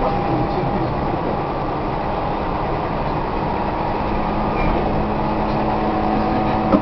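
Tobu 1800 series electric train heard from inside a passenger car while running: a steady rumble of wheels on rail with a low steady hum, and a brief click near the end.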